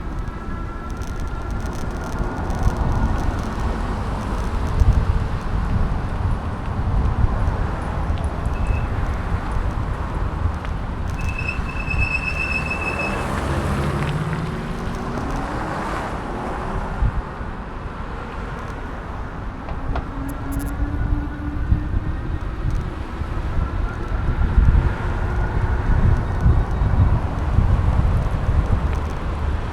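Street traffic with cars passing, their engine notes rising and falling, over a steady heavy rumble of wind and road vibration on a handlebar-mounted camera on a moving bicycle. A brief high squeal sounds about twelve seconds in.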